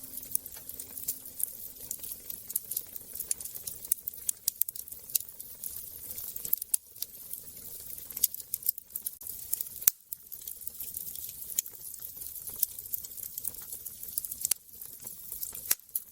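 Wood fire crackling in a fireplace: a dense, irregular run of small pops and snaps over a soft hiss, with a sharper snap about ten seconds in.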